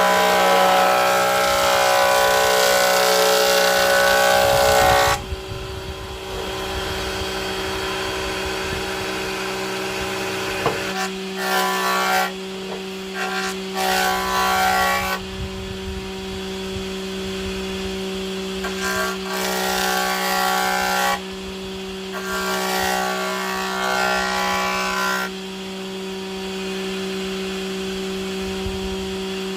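Electric power tool working wood, its motor humming steadily throughout. It runs under heavy load for about the first five seconds, then bites into the wood again in a series of shorter passes.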